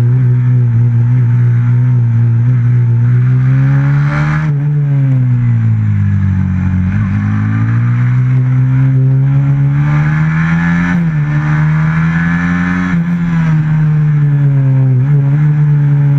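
On-board sound of a racing motorcycle's stock Honda FXR150 single-cylinder four-stroke engine under hard use. The note drops off around five seconds in, bottoms out a couple of seconds later and climbs again, with brief dips near the end as it shifts and slows for corners.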